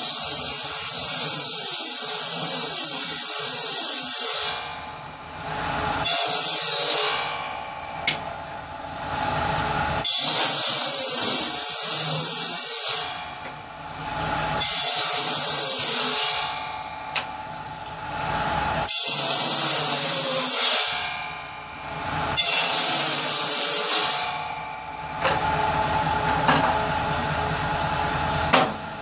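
Power saw cutting kindling wood in about seven separate cuts of one to four seconds each, the motor running on more quietly between cuts.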